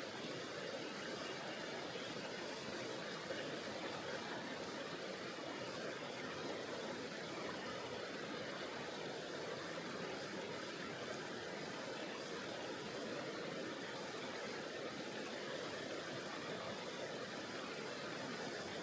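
Mountain river water flowing steadily, an even hiss of moving water with no breaks.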